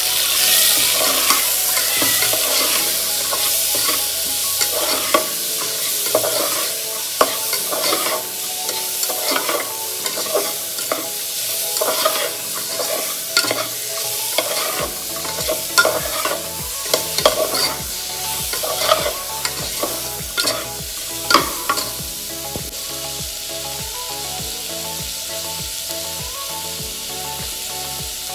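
Peas, tomatoes and onion sizzling in a pressure cooker pan while a steel spatula stirs them, scraping and clicking against the metal sides. The stirring stops about three-quarters of the way through, and the steady sizzle carries on alone.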